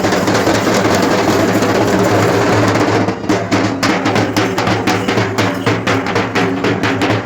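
Festival procession drums playing a fast, loud rhythm over steady held tones. The strokes run together like a roll for the first few seconds, then come as distinct quick beats.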